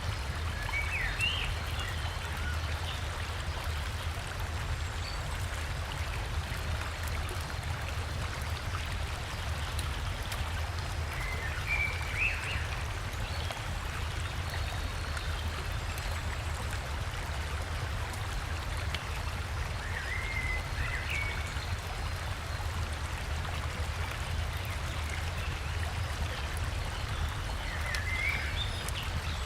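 Steady rush of flowing river water. A bird gives a short chirping call phrase four times, roughly every eight seconds.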